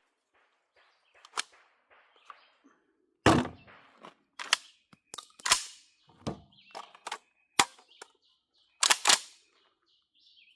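Irregular clicks and knocks of 12-gauge shells and box magazines being handled during reloading, a dozen or so at uneven spacing, the strongest in the middle and near the end. Birds chirp faintly in the second half.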